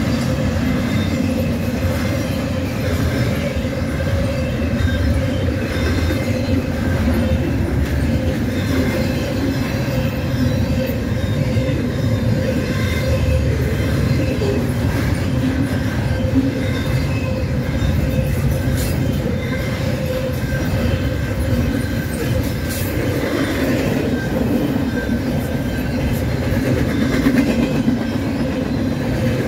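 Double-stack intermodal well cars rolling past: a steady, loud rumble and rattle of steel wheels on the rails. A level-crossing bell rings steadily over it.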